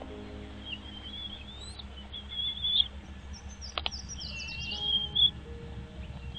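Small birds chirping in short, wavering high calls, with a quick falling run of notes about four seconds in. Soft background music plays underneath.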